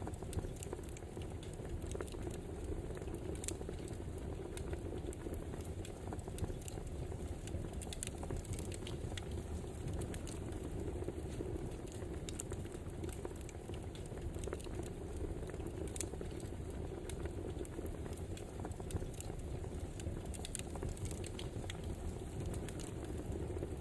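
Wood fire crackling: a steady low rush with frequent, irregular small pops and snaps.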